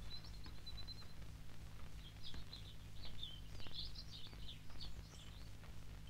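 Small songbird singing: a short high trill just after the start, then a run of quick high chirps from about two seconds in until near the end, over a faint steady low hum.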